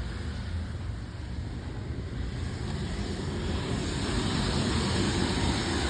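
Airplane engine noise: a steady rumble and hiss that grows louder about three and a half seconds in.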